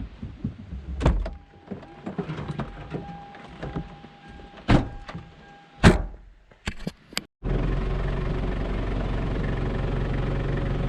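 Scattered knocks and rattles, with a thin held tone lasting a few seconds. After a sudden cut about seven seconds in, a vehicle's engine and road noise drone steadily, heard from inside the cabin.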